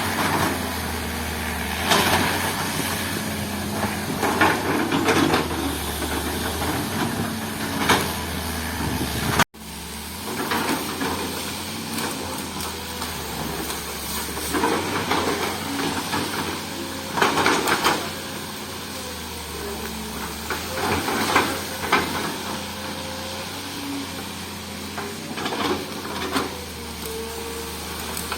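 Diesel engine of a heavy earthmoving machine working on a forest road, its low hum rising and falling under load, with repeated short bursts of louder noise every second or two.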